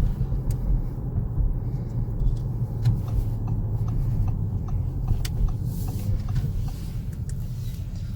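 Steady low rumble of engine and road noise inside the cabin of a 2019 Audi S5 Sportback cruising on the highway, its V6 holding an even pitch.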